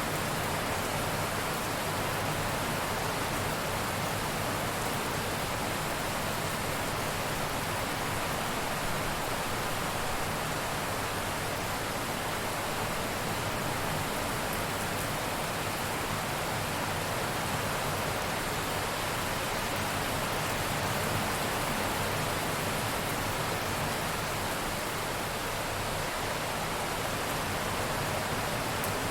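Heavy rain falling steadily, an even wash of sound with no thunder and no let-up.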